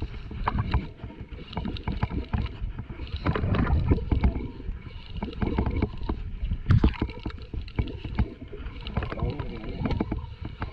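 Small boat on the sea: water splashing and slapping irregularly against the hull, with knocks and surges.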